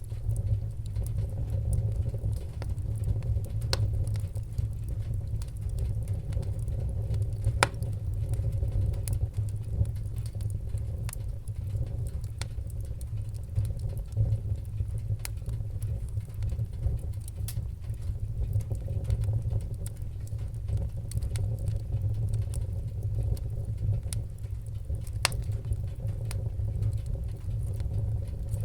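Wood-burning fire crackling, with irregular small snaps and a few sharper pops over a steady low rumble of the flames.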